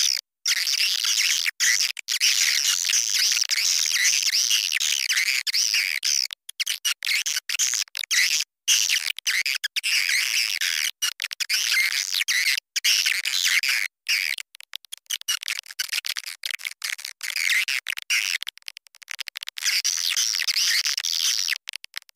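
Swiftlet lure call: a dense, continuous chatter of high twittering chirps from many swiftlets, of the kind played to draw swiftlets into nest houses. It is broken again and again by brief, abrupt dropouts.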